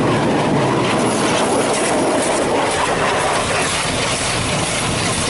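High-pressure water jets from a Water Wizard 2.0 touchless car wash boom hitting the truck's body during the wash stage, heard from inside the cab as a loud, steady rush.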